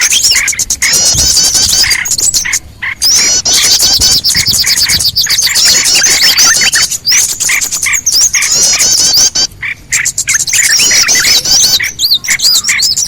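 Bird-lure recording of a dense chorus of small birds: many quick, high, squeaky chirps overlapping, with a lower note repeating about twice a second. The chorus breaks briefly twice, about two and a half seconds in and near ten seconds.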